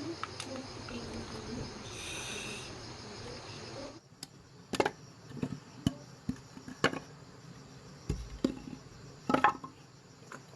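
Crickets chirping steadily. About four seconds in, the background drops and a series of sharp, irregular knocks or taps follows, with the insect chirping still faint underneath.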